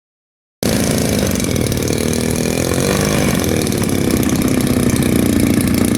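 Small gasoline engine of a 50cc RC model airplane running steadily. It cuts in abruptly about half a second in, after a moment of silence, and its pitch wavers slightly around the middle.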